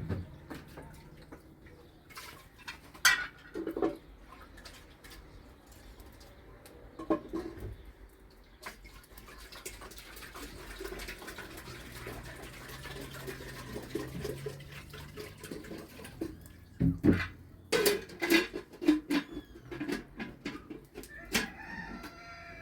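Bird calls with scattered sharp knocks, and a pitched, gliding call near the end.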